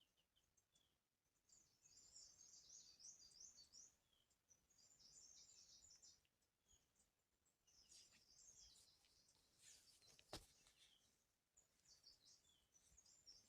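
Faint, high twittering chirps of small birds in short bursts, with a single click about ten seconds in.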